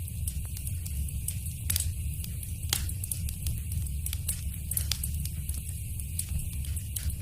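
Fireplace fire crackling: irregular sharp pops and snaps over a steady low rumble, with a couple of louder pops about two and three seconds in.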